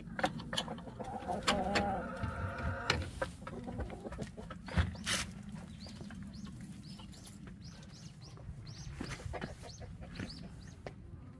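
Chickens clucking in a coop, with scattered knocks and rattles over the first few seconds. Later comes a run of short, high chirps.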